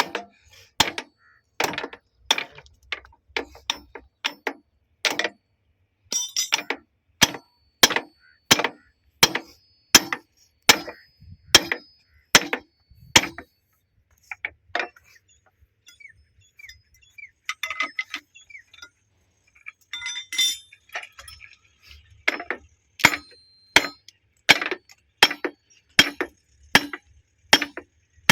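Repeated sharp metal-on-metal strikes with a ringing clink, about one to two a second, from metal tools working on steel railway point-machine fittings. There is a pause of a few seconds around the middle, then the strikes go on.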